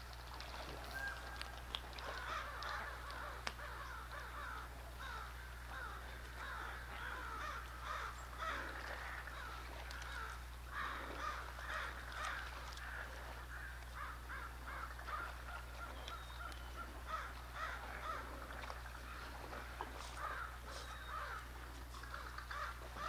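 Birds giving harsh caw-like calls, many and nearly continuous, over a steady low hum.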